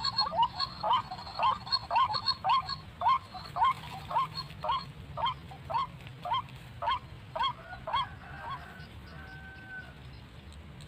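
White-breasted waterhen (ruak-ruak) calling: a long run of short, repeated notes, about two a second, that stops about eight seconds in.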